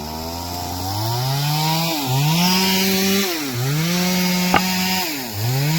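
Two-stroke chainsaw revving up and cutting firewood. Its engine note sags three times and climbs back as the chain bites into the wood.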